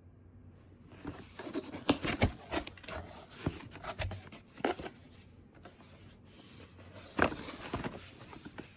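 Objects being handled: rustling and rubbing with sharp clicks and knocks, starting about a second in and stopping just before the end, loudest about two seconds in and again about seven seconds in.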